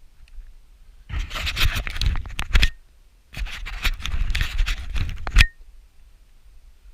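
Two bursts of rustling and scraping, each lasting about two seconds, each ending with a brief high squeak.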